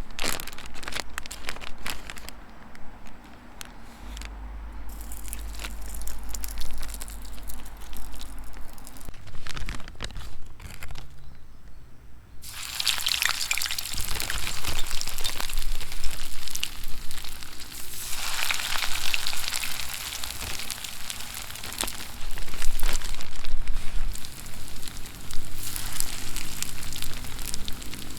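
Food sizzling in a pan over a campfire: scattered clicks and knocks for the first twelve seconds or so, then a loud sizzle breaks out and carries on, swelling and easing.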